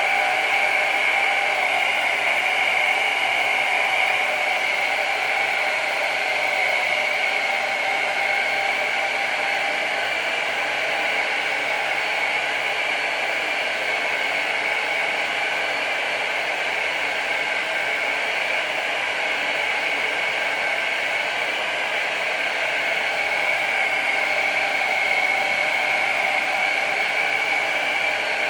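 Handheld hair dryer running steadily, a continuous whir and blowing air with a strong high hum, drying freezing spray on a wig's lace hairline.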